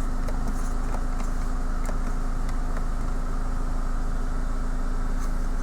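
Honda Accord four-cylinder engine idling steadily, heard from inside the cabin, with a few faint clicks from the climate-control knobs being turned. No blower fan comes on at any setting: the heater and AC blower is dead.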